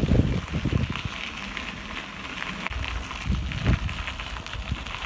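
Wind buffeting the microphone in irregular low gusts, strongest near the start and again about three and a half seconds in, over a steady crackling hiss.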